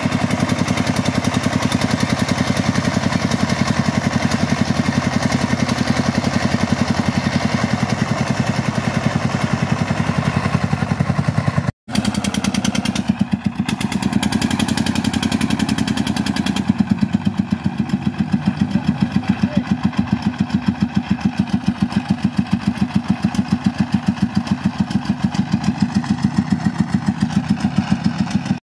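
Single-cylinder diesel engine of a công nông farm truck chugging hard under load with its wheels spinning on a slippery road. The sound drops out for an instant near the middle, then the engine carries on with a slightly changed tone.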